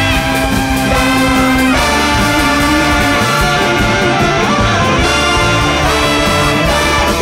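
Live big-band jazz with a brass and saxophone section playing loud sustained lines over bass and drums.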